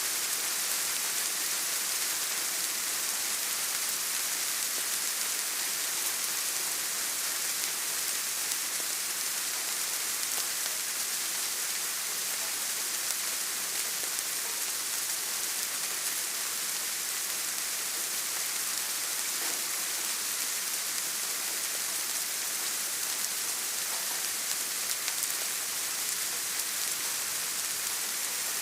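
Steady rain falling, an even hiss with a few faint individual drop taps.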